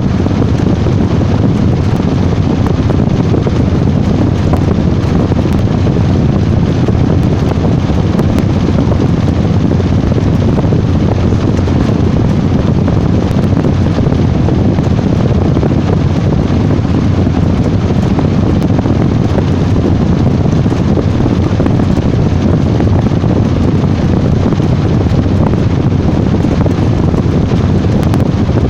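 Washing machine running with a loud, steady low rumble.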